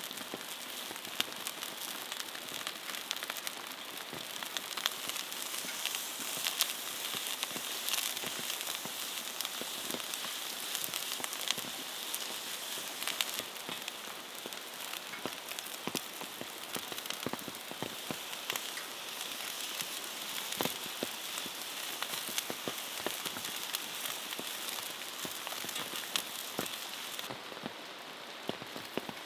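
Steady rain falling on a surface, with many sharp ticks and crackles from drops and the campfire. The high hiss thins suddenly near the end.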